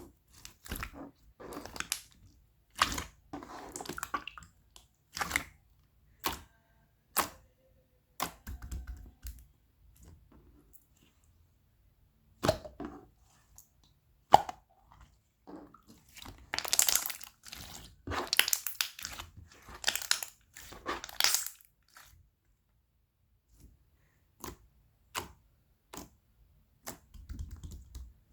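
Galaxy slime being squeezed and pressed by hand: irregular pops and clicks, with a run of dense crackling a little past halfway through.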